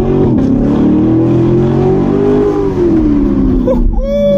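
C7 Corvette Z51's 6.2-litre LT1 V8, muffler deleted, accelerating hard. The revs dip at an upshift just after the start, climb again, then fall off as the throttle is lifted. Near the end a person lets out a long high-pitched whoop.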